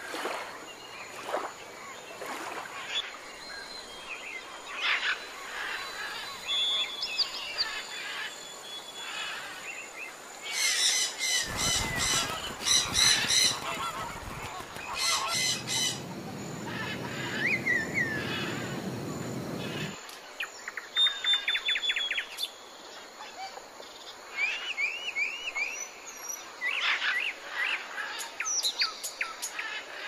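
Wild birds calling: assorted chirps and short gliding calls, with a run of loud, repeated calls in the middle and a rushing noise underneath for several seconds.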